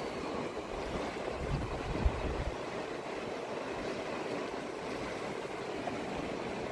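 Fast, rough river water rushing steadily, with wind buffeting the microphone in low thumps about two seconds in.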